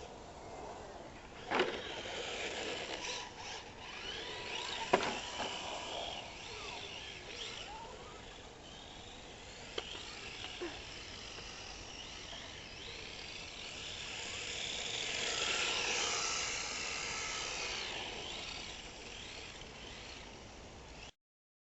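HPI Maverick RC drift car running on concrete, its motor whine rising and falling with the throttle, louder for a couple of seconds past the middle. A few sharp knocks stand out, the loudest about 1.5 s and 5 s in.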